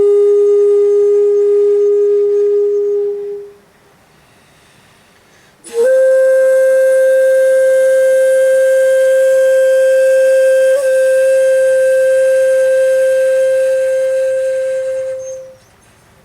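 Solo shakuhachi playing long held notes: one note fades out about three seconds in, then after a short pause a higher note starts sharply and is held steady for about ten seconds before dying away.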